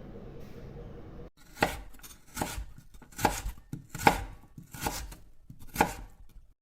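A low hum cuts off, then six sharp knocks come at an even pace, about one every 0.8 seconds, like a blade chopping on a board.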